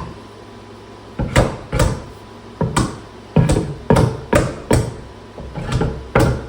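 A hammer striking a stuck piece over and over: about a dozen sharp blows at uneven spacing, each ringing briefly.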